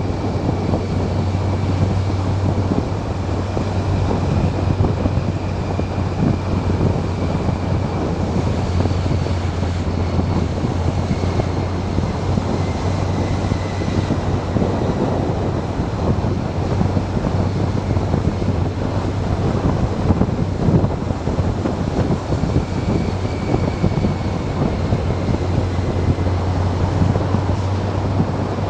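Motorcycle riding at steady speed: a steady engine drone under heavy wind rush buffeting the microphone, with a faint wavering whine on top.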